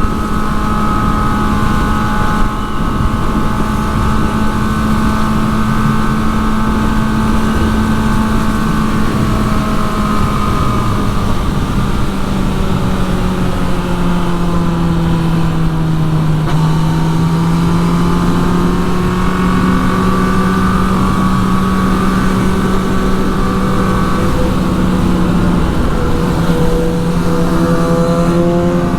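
Motorcycle engine running at a steady cruise under light throttle, its pitch easing down a little about halfway through and then climbing back.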